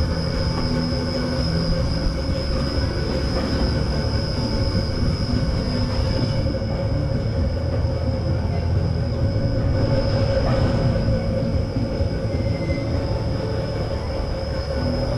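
Amusement ride machinery running steadily: a continuous low rumble with a high, even whine held throughout.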